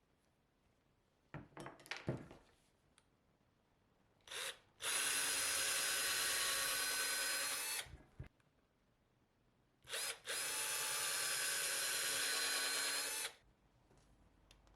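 A small electric power tool runs in two bursts of about three seconds each, each started with a brief blip, after a few handling knocks.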